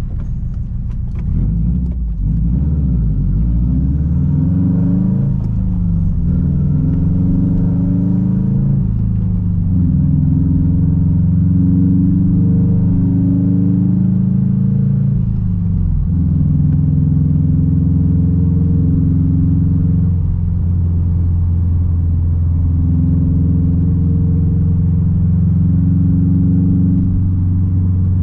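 2006 Subaru WRX STI's turbocharged flat-four engine through a straight-piped exhaust, driving. The revs climb twice in the first nine seconds, then settle into a steady drone. The pitch drops about sixteen seconds in and changes again around twenty seconds.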